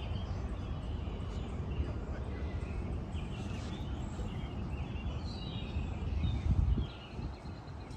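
Birds chirping in short calls over a steady low rumble of wind on the microphone, which swells briefly about six seconds in.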